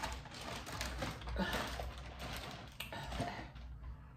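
Chewing of crunchy food, such as tortilla chips, lettuce and cucumber: a dense run of crisp crackles and small clicks.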